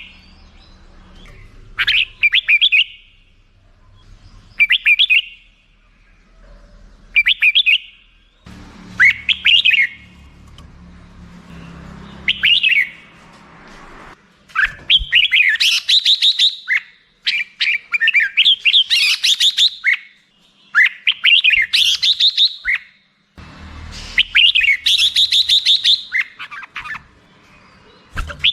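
Red-whiskered bulbul singing: short warbled phrases about every two to three seconds, then, about halfway through, an almost unbroken run of quick phrases lasting some twelve seconds.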